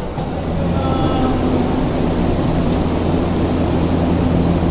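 Steady low hum from an Odakyu commuter train standing at the platform with its doors open. A brief faint beep sounds about a second in.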